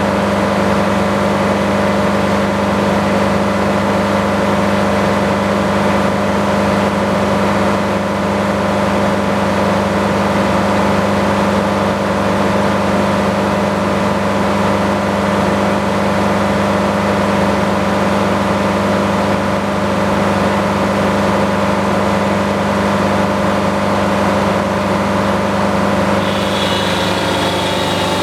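Sawmill engine running steadily under power, with a high steady whine coming in near the end.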